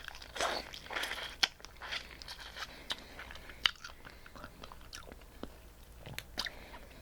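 Close-up eating of blue crab: shell cracking and crunching in scattered sharp snaps, the loudest about one and a half and three and a half seconds in, with chewing between them.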